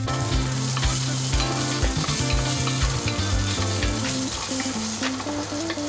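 Garlic cloves, ginger slices and white peppercorns sizzling in hot oil in a pot, stirred with a wooden spatula that scrapes and knocks against the pan bottom: the aromatics are being sautéed until fragrant.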